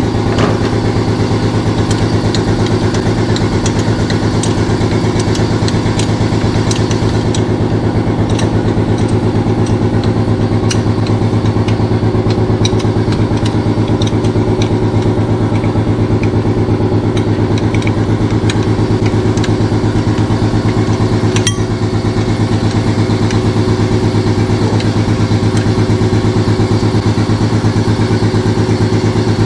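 Shop air compressor running steadily, a constant low hum with a fast even pulse, with a few light clicks over it in the first half.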